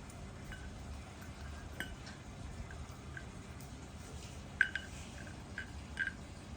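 An African grey parrot knocking and pecking at a hard bowl: scattered light clinks, each with a brief ring, about eight in all, loudest in a quick pair about four and a half seconds in.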